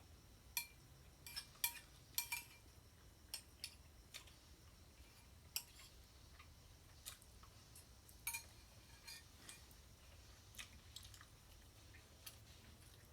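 Close-up eating sounds: faint, irregular wet clicks and smacks of a mouth chewing food, a few every second or two, denser in the first few seconds.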